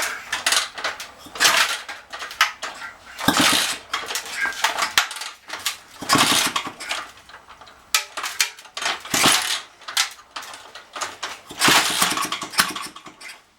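1970 Vespa Sprint two-stroke scooter engine being kick-started over and over: several loud, clattering bursts a second or two apart as the kickstart turns the engine over, without it catching and running.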